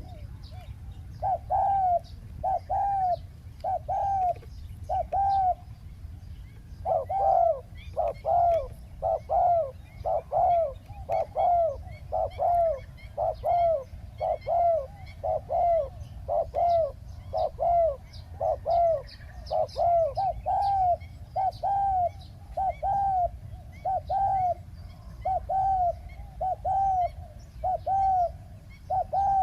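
Spotted dove cooing: a long run of short, arched coos, about one and a half a second, with a short break about five seconds in. Small birds chirp faintly in the background.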